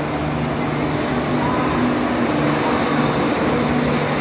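Steady running noise of the Pallavan Express passenger train: an even rumble with a low steady hum.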